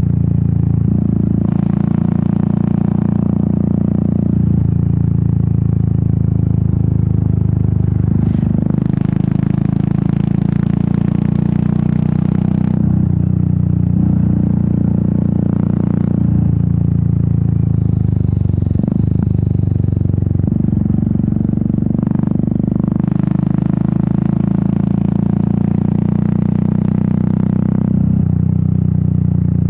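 Royal Enfield Meteor 350's single-cylinder engine and exhaust running steadily on the road, its note changing several times with throttle and speed. Wind rushes over it in stretches.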